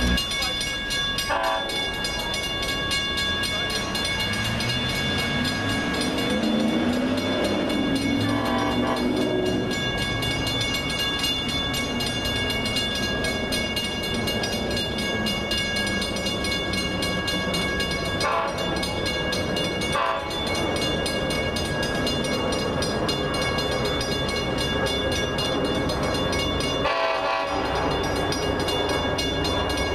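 A train running past on the track, with steady high whining tones throughout and a pitch that climbs for a few seconds. A handful of sharp clanks, likely wheels striking rail joints, are spread through the passage.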